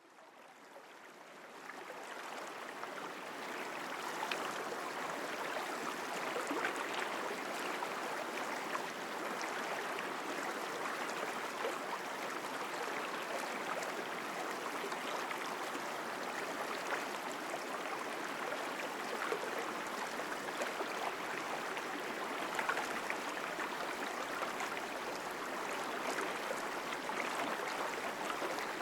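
Forest mountain stream flowing strongly, a steady full rush of water with small splashes. It fades in over the first few seconds.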